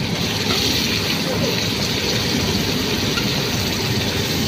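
Pans of kema kari (minced-meat curry) frying on a street stall's fire: a steady low rumble with a sizzling hiss on top.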